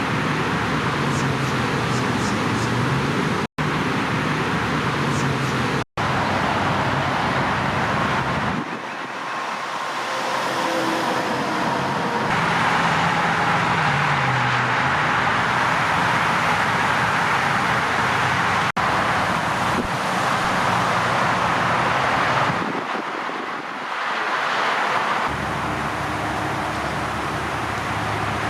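Road traffic: cars passing with a steady rush of tyre noise and slowly sliding engine pitch. The sound cuts off abruptly and changes character several times, as between separate takes.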